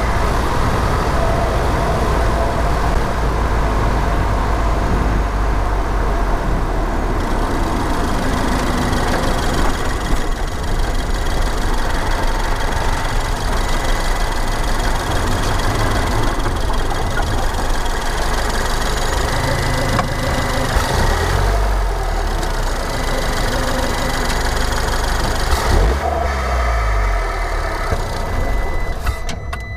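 Ford Fiesta ST's turbocharged engine running, heard close up from inside the engine bay, its revs shifting up and down with brief whooshes that fit the blow-off valve venting. The sound dies away near the end.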